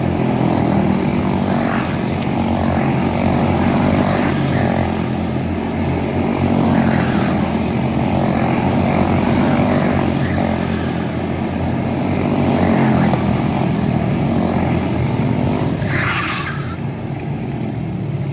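Go-kart engines running at racing speed, a steady drone whose pitch rises and falls slightly, with a short higher-pitched noise near the end.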